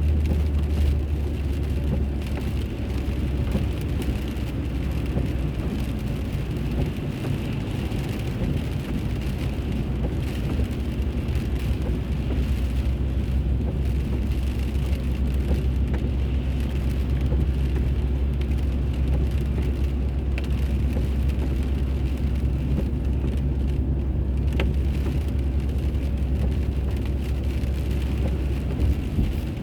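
Car driving on the road, heard from inside the cabin: a steady low engine and tyre drone with road noise.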